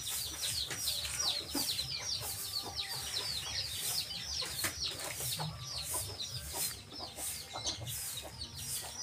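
Many small birds chirping at once: a dense run of short, high, downward-sliding chirps, several a second, with no let-up.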